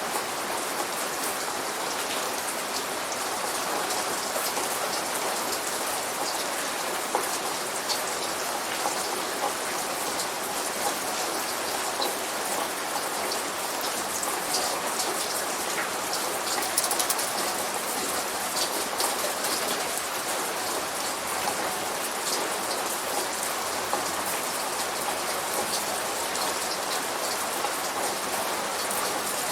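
Steady light rain falling, with many small individual drops pattering on a surface. No thunder is heard.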